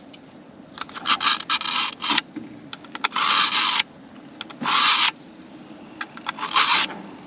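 A knife blade drawn repeatedly through the middle slot of a handheld pull-through knife sharpener: four separate rasping scrapes, about one every second and a half, as the blade is honed.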